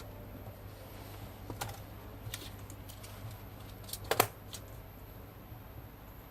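A few light clicks and taps from small hard parts being handled, the loudest a quick double click about four seconds in, over a low steady hum.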